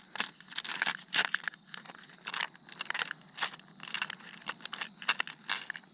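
Crinkling and crackling of plastic tackle packaging being handled, in quick irregular bursts, while a hook, bullet weight and soft-plastic worm are got out for rigging.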